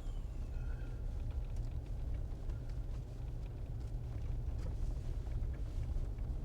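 Jeep driving on a snow-covered dirt road, heard from inside the cabin: a steady low rumble of engine and tyres with scattered light ticks.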